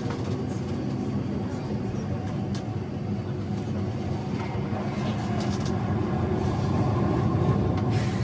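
Enoden electric train running, heard from inside the passenger car: a steady low rumble of wheels and motors with scattered light clicks and rattles. It grows a little louder near the end.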